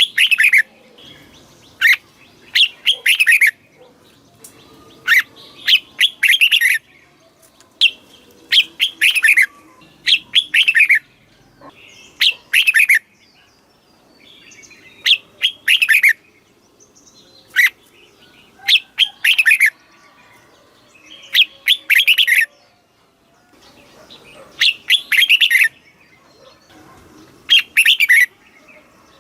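Red-whiskered bulbul singing: short, loud whistled phrases of about a second each, repeated every one to two seconds.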